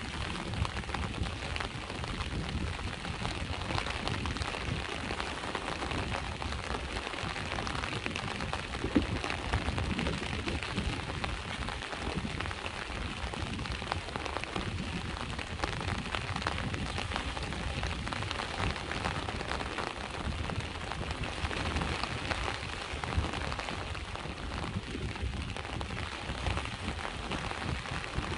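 Steady rain falling, a dense patter of drops over a constant low rumble.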